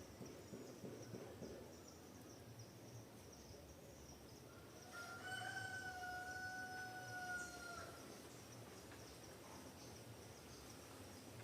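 A rooster crows once, one long call lasting about three seconds around the middle, over a steady high-pitched buzz of insects.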